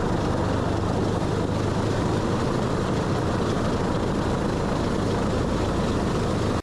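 Boeing B-29's Wright R-3350 radial piston engines and propellers running steadily on the ground, a dense even drone with a strong low rumble.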